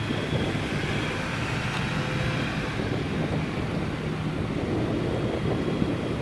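Classic car's engine running steadily, with wind noise on the microphone.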